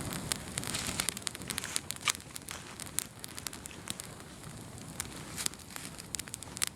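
An open bonfire crackling and popping: a dense run of sharp snaps over a soft hiss, busiest in the first two seconds, then sparser pops.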